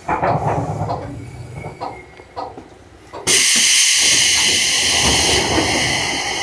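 Seibu New 101 series electric train creeping into a station, with a low rumble and a few clanks from the running gear. About three seconds in, a loud, steady hiss of compressed air starts suddenly as the train comes to a stop.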